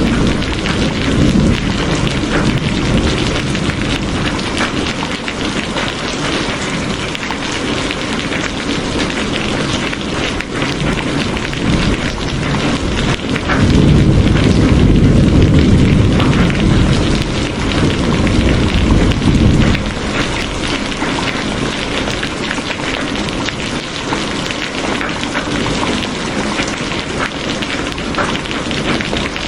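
Steady heavy rain, a dense patter of drops. About halfway through, a low rumble of thunder swells up for several seconds and then fades back under the rain.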